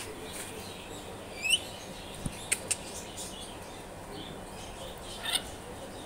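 A bird chirping: a short, high, warbling call about a second and a half in and another near the end, with two sharp clicks in between.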